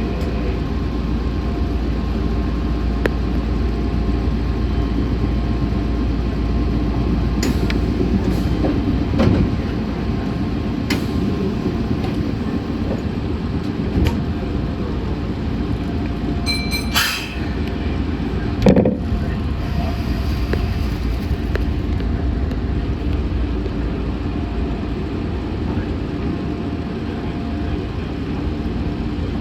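Meitetsu 6500 series electric train running, heard from inside the car: a steady rumble from the wheels and running gear with a faint steady whine. Scattered sharp clicks and knocks run through it, with a brighter burst of noise about two-thirds of the way in.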